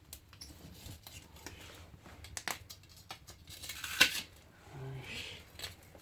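Metal fire tongs clicking and scraping as they try to grip a piece of firewood in the firebox, the weak tongs failing to hold the log. There is a single sharp clank about four seconds in.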